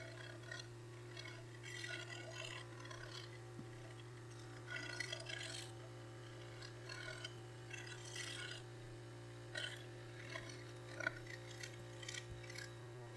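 Faint, irregular scratching and scraping as old, peeling clear coat is worked off an aluminum truck wheel, over a steady low hum.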